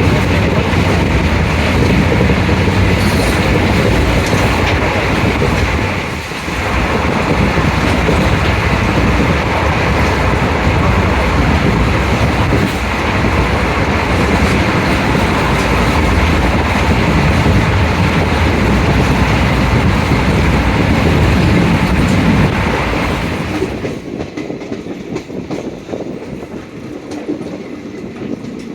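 Passenger express train running at speed, its coach wheels clattering and rattling over the rails in a loud, steady din. About 23 seconds in, the noise drops sharply, becoming quieter and duller.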